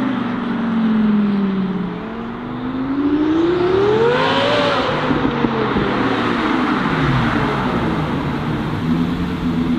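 Twin-turbo Lamborghini Gallardo Superleggera's V10 engine and X-pipe exhaust on the road as the car drives by. The engine note falls, then climbs to a peak about halfway through as the car accelerates toward the camera and passes, falls away again, and settles into a steady note near the end.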